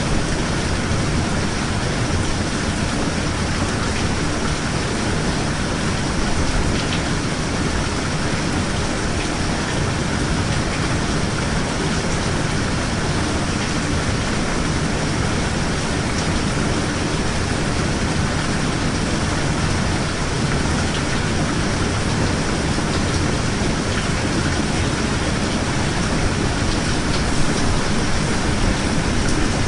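Steady heavy rain, an even hiss with a low rumble beneath it and a few faint drop ticks.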